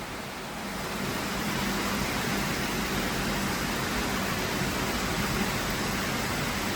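Steady rain hiss that grows louder about a second in and then holds even.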